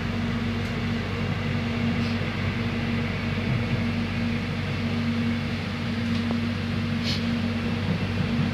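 Steady hum and rumble inside the cabin of an airport rail link train running along the track, with a constant low drone throughout and a faint click about seven seconds in.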